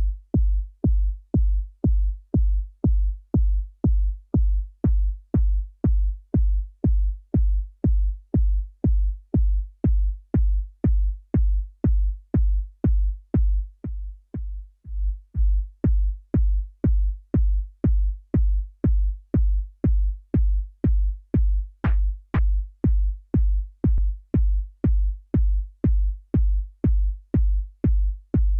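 Synthesized kick drum made in Ableton Live's Operator, playing in a loop about twice a second: each hit is a deep thump with a short click on top. About five seconds in the click turns brighter, the loop falters briefly just before the middle, and one hit about two-thirds of the way through is sharper than the rest.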